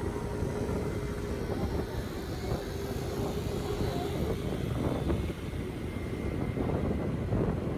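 Street traffic rumbling steadily, with a steady engine hum that stops about four seconds in.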